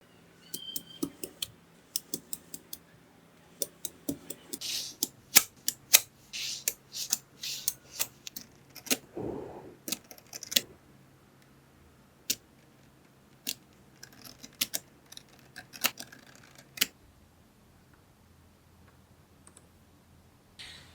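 Small magnetic balls clicking and snapping together one after another at an irregular pace, with a few short rattling scrapes as clusters of balls are moved. The clicks stop a few seconds before the end.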